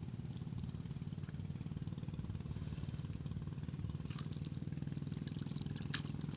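A small engine running steadily at a constant speed with an even, rapid low pulse. A few faint short crackles come over it in the second half.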